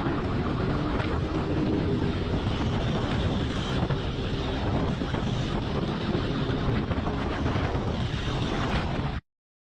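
Motorcycle running at speed, with heavy wind noise on the microphone. The sound cuts off suddenly near the end.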